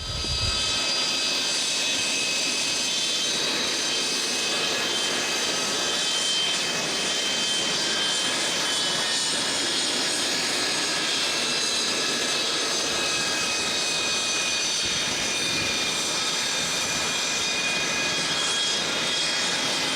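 L-39 Albatros jet trainers' turbofan engines running with a steady rushing noise and several high whines on top, some of the whine tones slowly falling in pitch.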